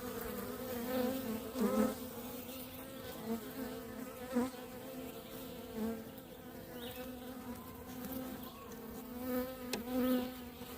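Honeybees buzzing at an open hive: a steady, slightly wavering hum of many bees.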